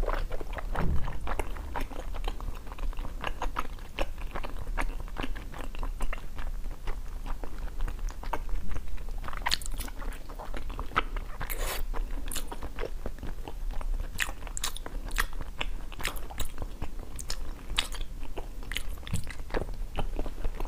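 Close-miked biting and chewing of pink jelly, a steady run of small crisp crunches and wet clicks in the mouth.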